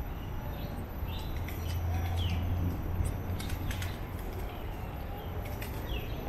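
Birds chirping, a few short falling calls, over a steady low rumble and scattered light clicks.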